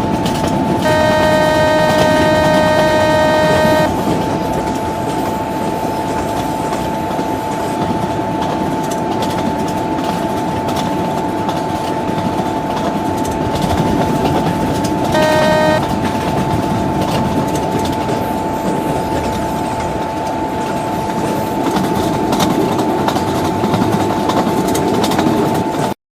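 Passenger train of ICF coaches hauled by a WCAM-5 electric locomotive running, with a steady whine over the rumble of the wheels. The locomotive's horn sounds one long blast about a second in and a short blast about fifteen seconds in.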